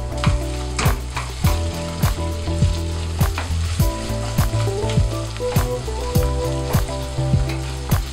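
Food sizzling and frying in a pan, with stirring, under background music with a steady beat.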